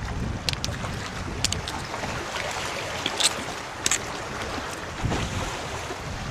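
Wind rumbling on the microphone outdoors, with a handful of short sharp clicks or cracks scattered through it.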